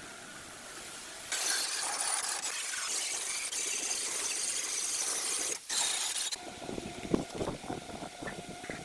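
A loud, steady hiss starts about a second in and stops about six seconds in, with a brief break just before the end. It is followed by a steady whine with irregular knocks and clinks.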